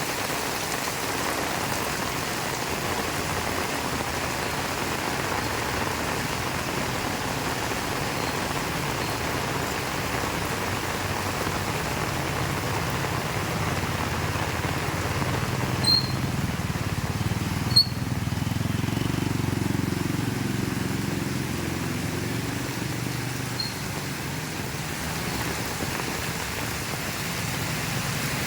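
Heavy rain falling steadily. About halfway through, a motor vehicle's engine rumbles past for several seconds before fading, with a couple of sharp ticks as it goes by.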